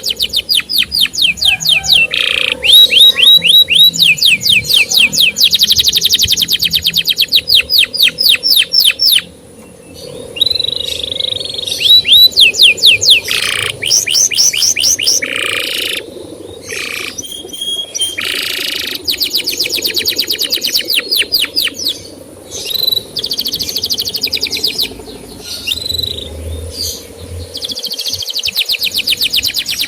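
Canary singing: fast trills of repeated downward-sliding whistled notes, each run lasting a few seconds, broken by short pauses and changes of phrase.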